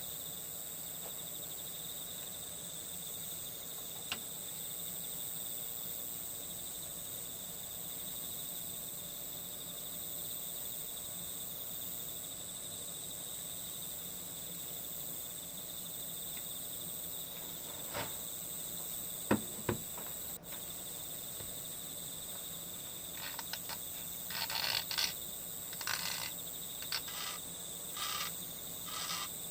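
Steady high chirring of crickets. A few sharp clicks come about two-thirds of the way in, then a run of short scratchy noises near the end.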